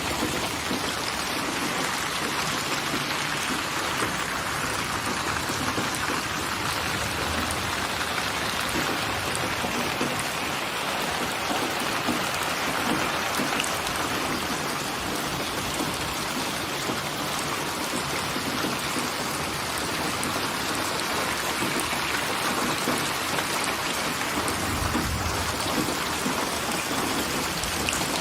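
Steady rain falling and pattering on surfaces, an even hiss of many drops with no pauses. A brief low rumble comes about 25 seconds in.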